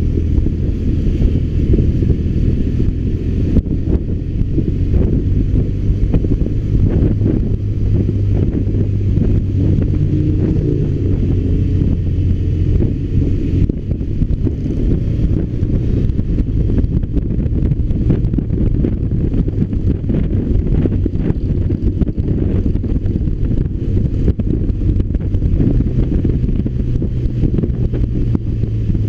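BMW R1200RT's flat-twin boxer engine pulling steadily on the move, under heavy wind rumble on the microphone. Its low engine note shifts slightly in pitch now and then as the revs change.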